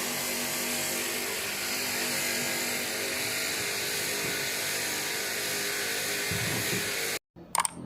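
Steady machine running noise with a hum of several steady tones, cutting off abruptly about seven seconds in, followed by a couple of brief clicks.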